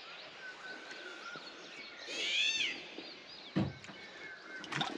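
Birds calling at dawn over a steady background hiss of water, with a thin whistle early and a loud burst of rapid, arching chirps about two seconds in. A short thump follows a little after three and a half seconds.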